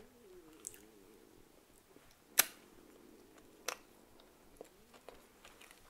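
A person quietly chewing a soft white-bread sandwich with the mouth closed, with a few sharp clicks, the loudest about two and a half seconds in and another about a second later.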